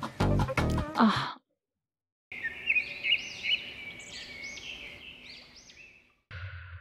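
Music with plucked strings stops about a second in. After a moment of silence, birds chirp in a series of quick, arching high chirps that fade out gradually. A short low hum comes in near the end.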